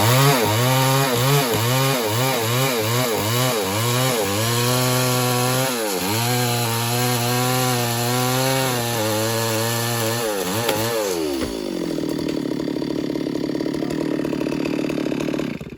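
Stihl MS 382 two-stroke chainsaw cutting wood, its engine speed rising and dipping over and over as the chain bites. About eleven seconds in it drops back to a steady idle.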